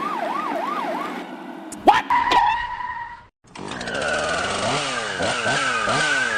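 Siren sound effect wailing fast, its pitch sweeping up and down about two and a half times a second. About two seconds in comes a sharp bang, followed by a steady tone that cuts off. After a brief gap, a new siren-like sound starts, with a high steady tone over repeating rising-and-falling glides.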